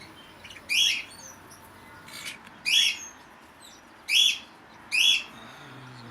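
Parrots in an aviary calling: four loud, short, harsh calls spaced one to two seconds apart, with fainter chirps between them.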